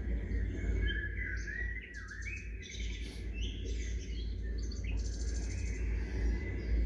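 Several small songbirds chirping and calling back and forth, with short rapid trills about two and five seconds in, over a steady low rumble.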